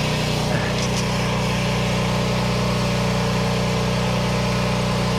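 A small engine running steadily at a constant speed, with a brief falling squeak about half a second in.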